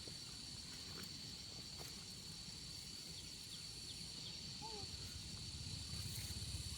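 Insects buzzing in a steady, unbroken high-pitched drone, with a few faint short chirps about halfway through.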